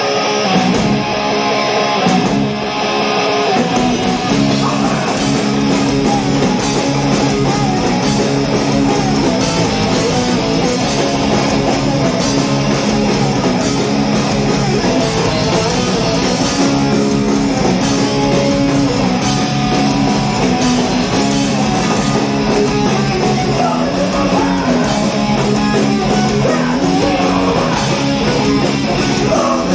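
A rock band playing live with loud electric guitars. For the first few seconds the guitar plays with little low end, then bass and drums come in about three and a half seconds in and the full band plays on steadily.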